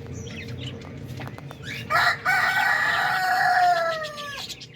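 A rooster crows once, starting about two seconds in: one long call of about two and a half seconds that falls in pitch and cuts off near the end. Faint small-bird chirps come before it.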